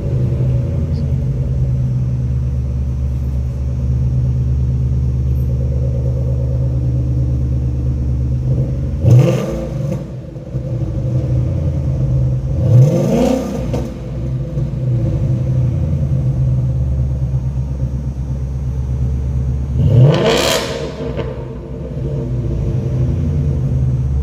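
2018 Ford Mustang GT's 5.0-litre V8 idling through its active-valve exhaust, revved sharply three times, each rev rising quickly and dropping back to idle.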